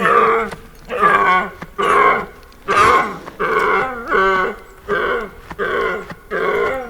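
An animal calling over and over, about eight short pitched calls of roughly half a second each, evenly spaced.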